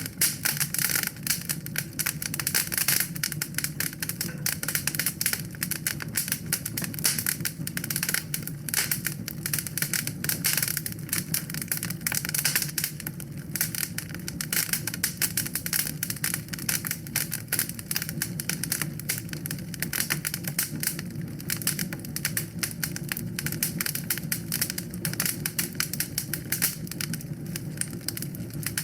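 Wood fire burning in a fireplace, crackling in a dense, irregular stream of small pops over a steady low rumble of the flames.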